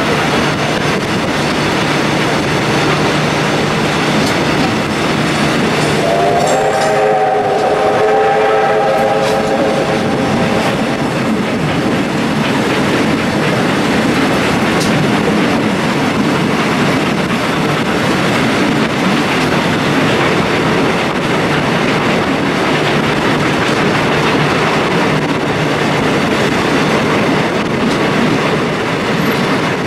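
A train running along the track with a steady wheel-and-rail noise. About six seconds in, a horn or whistle sounds for about five seconds, several notes at once.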